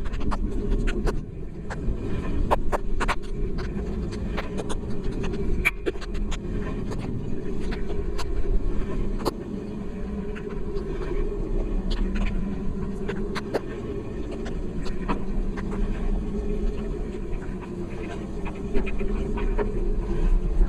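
Steady low rumble of riding along, with irregular sharp ticks scattered throughout: light rain pattering on the rain cover.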